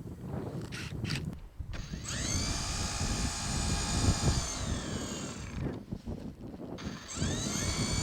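Small motor spinning up with a rising whine about two seconds in, running steadily, then winding down, and spinning up again near the end; rustling noise before it.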